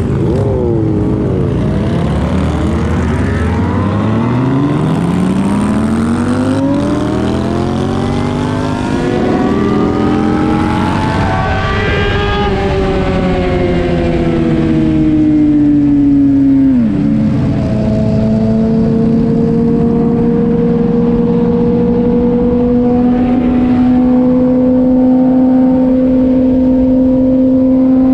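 Road vehicle engines running: one engine speeds up with a rising pitch for several seconds, eases off with a falling pitch around the middle, then runs steadily with a slowly rising pitch. Other engine tones cross it early on.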